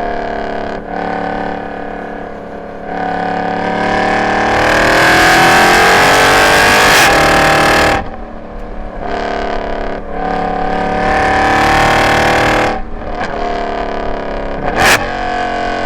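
Mercedes-Benz C63 AMG's M156 6.2-litre V8, straight through long-tube headers and an X-pipe with no catalytic converters, being driven hard on track. The engine note eases off, then climbs steadily under acceleration to its loudest about seven seconds in, drops suddenly about a second later, pulls up again and drops back, with a single sharp crack near the end.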